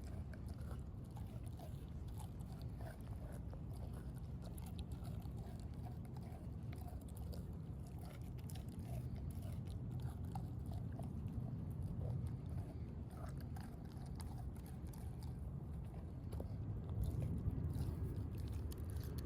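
A puppy chewing and biting a raw meat patty, heard as many short, irregular clicks.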